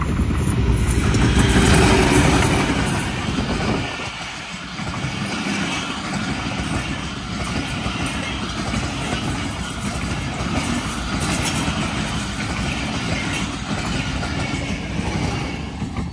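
Diesel-hauled passenger express train running through on the main line at speed, steel wheels rumbling and rattling over the rails. It is loudest and deepest in the first few seconds, then settles to a steady rolling clatter as the coaches go by.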